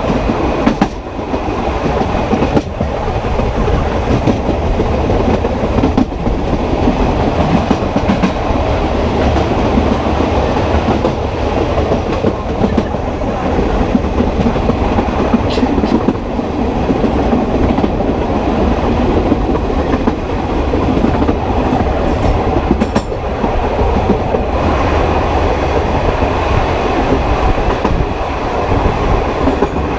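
Tren de Sóller narrow-gauge electric train running, heard from aboard: a steady rumble of wheels on rail, with irregular clicks and knocks as the wheels pass rail joints.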